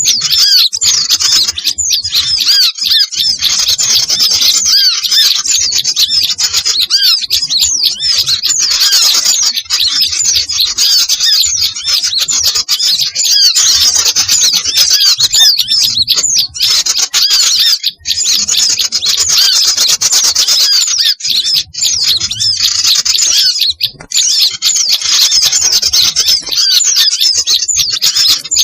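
Dense, continuous chorus of many small songbirds chirping and twittering over one another, high-pitched and without a break: a mixed small-bird lure recording used to call birds in for trapping.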